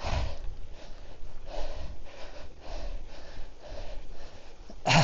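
A cyclist breathing hard on a steep, sustained hill climb, heavy breaths coming every half second or so, with one louder exhale near the end.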